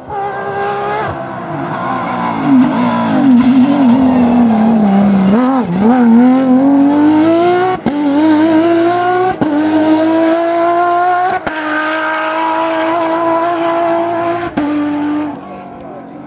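Porsche 997 GT3 flat-six rally engine at high revs. It slows with the revs falling and a few quick blips about five seconds in. It then pulls up through the gears, with short breaks at each upshift near the middle, holds a steady high note, and drops off near the end.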